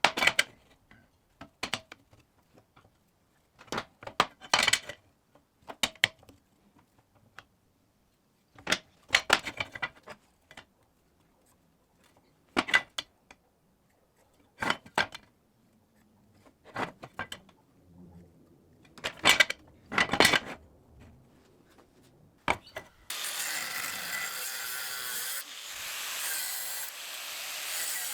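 Steel parts and clamps being handled, giving scattered sharp knocks and clicks. Near the end a continuous harsh metalworking tool noise starts and holds steady.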